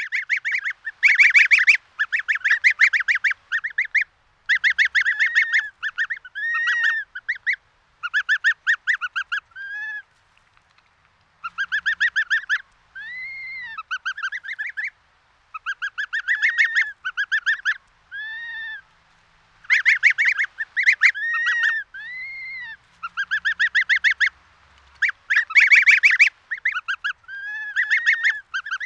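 Domestic geese honking in loud, rapid bouts of repeated calls, with single rising-and-falling notes between the bouts and short pauses between bouts.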